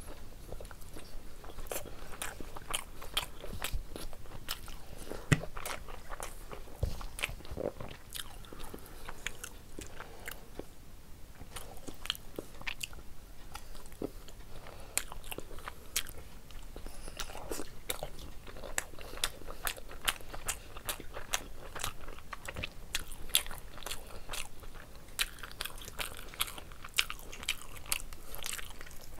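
Close-miked chewing of food eaten by hand: a steady run of short, wet mouth clicks, with a few louder ones.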